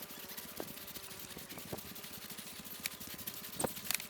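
A man breathing hard and panting while walking, pulling a loaded handcart, with footsteps and the cart rattling over the ground, plus a few sharp clicks.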